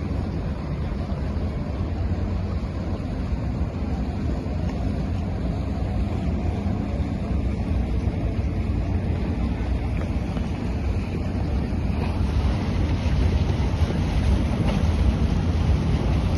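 Steady low rumble of a boat under way on open water, with wind buffeting the microphone; it grows louder and hissier about twelve seconds in.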